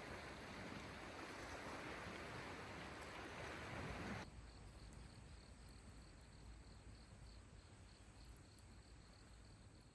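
Faint outdoor background hiss that steps down quieter about four seconds in. After that comes a faint, evenly pulsing high chirp like insects.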